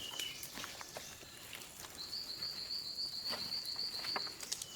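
An insect trilling in a high, evenly pulsed run of about seven pulses a second, starting about two seconds in and lasting a couple of seconds, over scattered light knocks.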